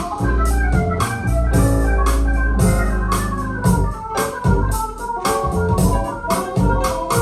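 Jazz recording playing through Tannoy Platinum B6 hi-fi speakers with a subwoofer: an instrumental passage with keyboard chords, deep held bass and steady drum and cymbal hits.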